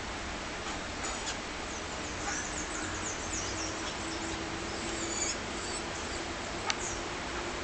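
Small tropical songbirds chirping, with many short, high calls overlapping, over a steady hiss, and one sharp click about seven seconds in.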